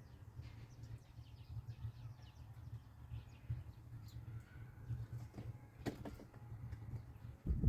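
Faint bird chirps over a steady low rumble, with a few clicks and a single thump near the end.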